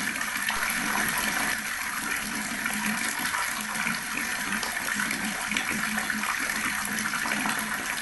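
Water running from a tap in a steady stream, splashing evenly.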